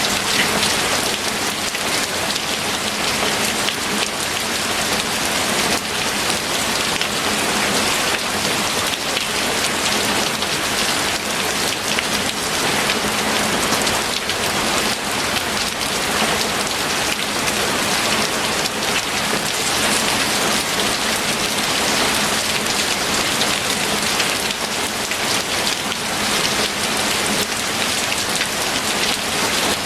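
Steady rain falling and pattering on a surface, a dense even hiss of many drops with no pauses.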